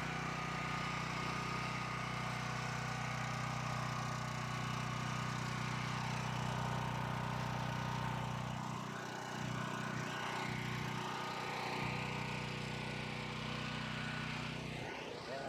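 Champion 9000-watt portable generator running steadily on gasoline just after its first start, a constant, even engine hum.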